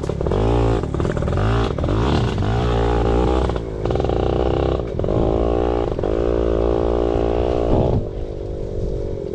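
Yamaha PW80 pit bike's small two-stroke single-cylinder engine revving up and falling back in repeated surges while being ridden, dropping to a lower note about eight seconds in.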